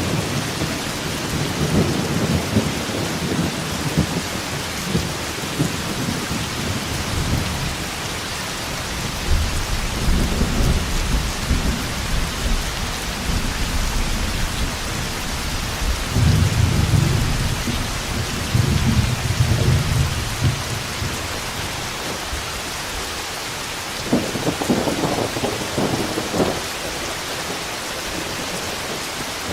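Steady heavy rain with rolling thunder: long low rumbles swell and fade several times, including one near the start, two in the middle and a shorter one about three quarters of the way in.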